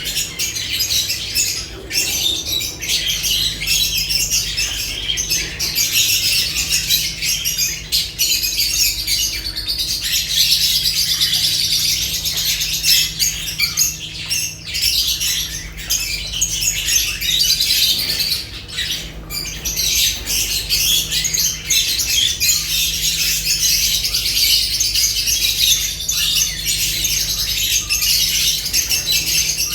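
A flock of lovebirds chattering and squawking continuously, many shrill calls overlapping, with a few wing flaps and clicks.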